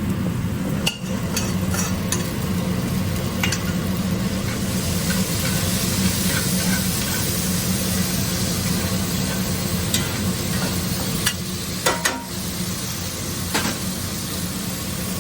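Onions, garlic, raisins and apricots sizzling in a frying pan as they are stirred, with a few sharp clicks of the utensil against the pan and a steady low hum underneath.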